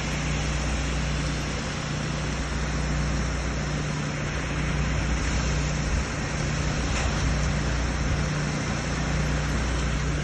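A motor engine running steadily with a low, even hum, under a constant hiss.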